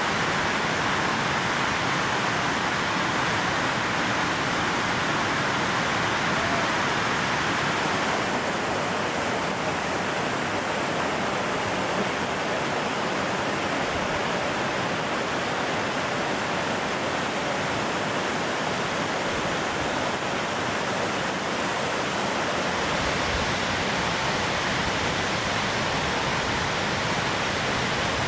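Orkhon Waterfall: the steady, unbroken rush of falling water, its tone shifting slightly about eight seconds in and again near the end.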